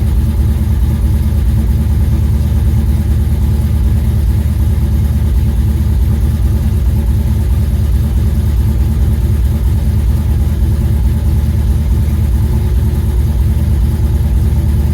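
1978 Ford Bronco V8 with Holley Sniper throttle-body fuel injection idling steadily, still cold shortly after a start in below-zero air. The sound is low and even, with no revving.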